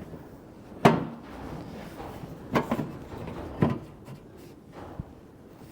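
A few sharp knocks and clatters of a sheet-metal patch panel and tools being picked up and handled: one about a second in, two more in the middle, then fainter clicks.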